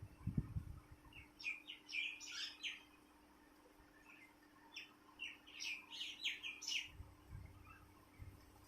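Small birds chirping in two quick bursts of short, high chirps, the second a couple of seconds after the first.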